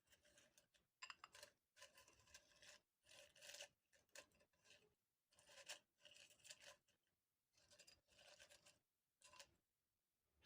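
Quiet ASMR trigger sounds: short, irregular scratching and rubbing strokes on an object, about a dozen, some with a faint ring.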